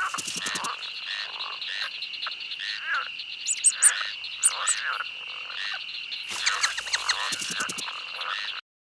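A chorus of animal calls: many short repeated calls over a steady, high trill, cutting off suddenly near the end.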